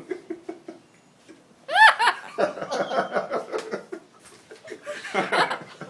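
Parrot laughing: a high arching squeal about two seconds in, then a run of quick chuckling pulses, and another short burst near the end.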